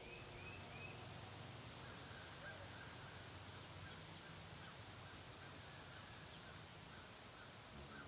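Faint calls of birds: three short chirps at the start, then a run of soft repeated notes from about two seconds in, over a faint steady low hum.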